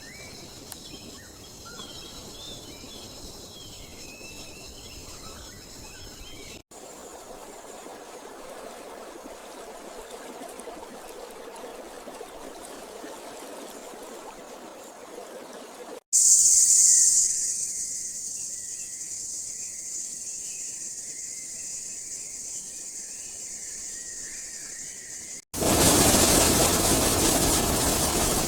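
Rainforest ambience cut together in segments. First a steady high insect drone with bird chirps, then a soft steady hiss. Next a loud, high insect buzz over bird calls, and from a few seconds before the end a loud, steady rushing noise.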